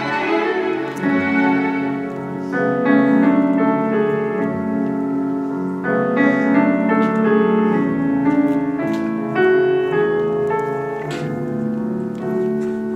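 Classical-style music led by piano, with sustained notes and changing chords.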